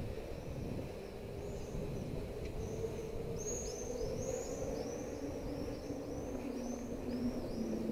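A bird singing a run of repeated, arching chirps, about two to three a second. Underneath is a steady low outdoor rumble of street noise, with a faint drone that slowly falls in pitch.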